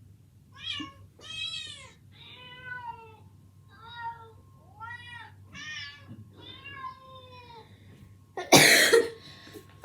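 A string of about eight short cat meows, each rising and falling in pitch, with gaps between them. Near the end comes a loud cough from a person.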